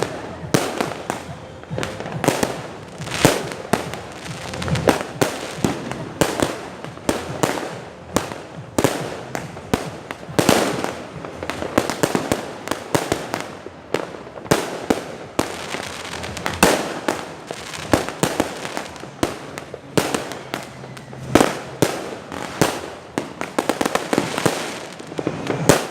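Fireworks going off without pause: a dense, irregular string of sharp bangs and pops, several close together at a time, with no break.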